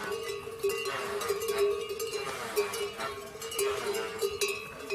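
Bells clanking with repeated clicks, under a few falling animal calls like bleats or grunts: a farm-animal sound effect.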